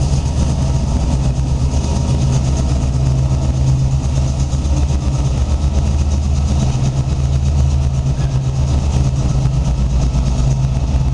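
Diesel engine of the ADIF 310-series shunting locomotive 310.022 running steadily with a low, even hum.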